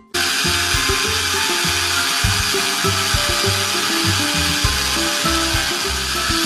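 A battery-powered toy kitchen appliance whirring: a steady buzzing that starts suddenly and keeps going, with background music playing underneath.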